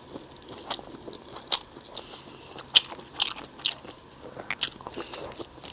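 Close-miked eating sounds: a person chewing imitation crab stick, with short wet mouth clicks and smacks at irregular intervals, the loudest about one and a half and three seconds in.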